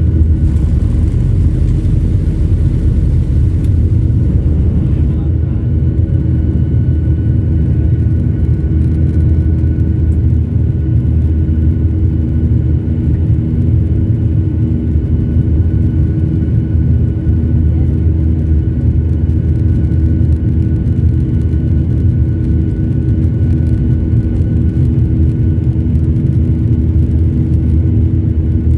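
Jet airliner engines and airflow making a steady, loud rumble with a few steady hums. A higher hiss drops away about five seconds in.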